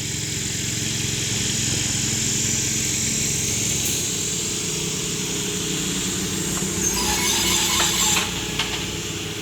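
An engine idling steadily with a low hum, and a brief spell of added higher, hissy mechanical noise about seven seconds in.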